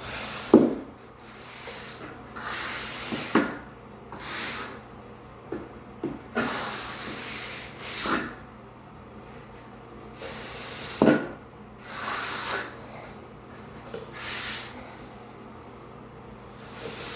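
A trowel scraping and packing dry shower-pan mortar in a run of separate rasping strokes, a few of them starting with a dull knock.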